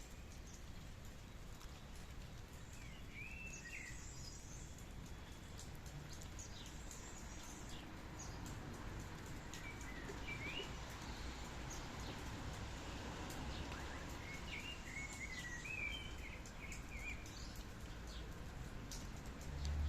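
Steady, fairly quiet hiss of light rain with scattered drips, and a bird chirping in short phrases a few times: about 3 seconds in, around 10 seconds, and again around 15 to 17 seconds.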